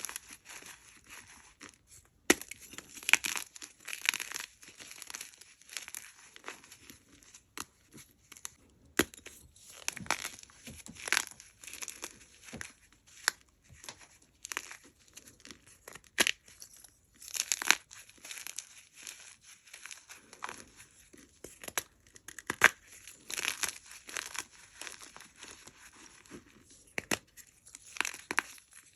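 Hard blocks of gym chalk being crushed and crumbled by hand: irregular crisp snaps and crackling crunches, with short crumbly rustles between them.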